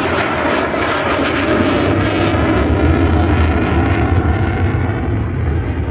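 Military aircraft flying past at an air show: loud, steady engine noise with a heavy low rumble, swelling over the first couple of seconds and then holding.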